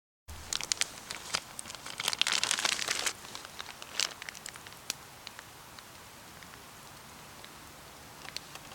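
Crackling and popping from cooking over a wood campfire: scattered sharp snaps, with a denser, louder run of crackling about two to three seconds in, then quieter.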